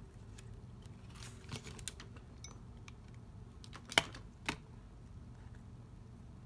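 Light clicks and taps of papercraft items and tools being handled on a tabletop, with a sharp click about four seconds in and a second one half a second later.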